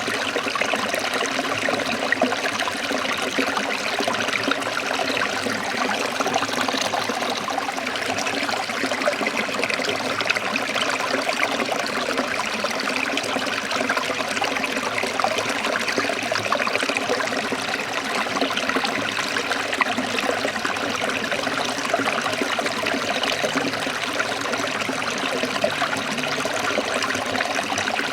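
Forest stream trickling and splashing over rocks, a steady, even rush of running water.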